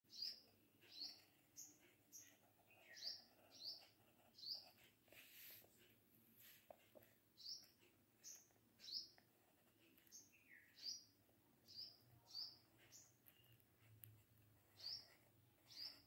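Small bird chirping faintly over and over: short, high notes that each slide downward, about one or two a second, with a couple of lower notes mixed in.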